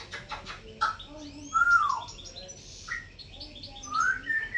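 Cockatiel chirping and whistling: a run of short chirps, with a loud rising-then-falling whistle about a second and a half in and a rising whistle near the end.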